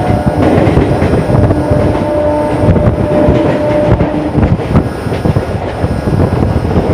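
Suburban electric local train running along the line, heard from the open doorway: wheels clattering over the rails in a dense, loud rumble. A faint steady whine sits over it for a few seconds in the middle.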